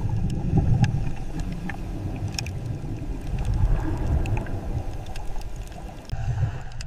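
Low, steady underwater rumble of moving water, with a few faint clicks.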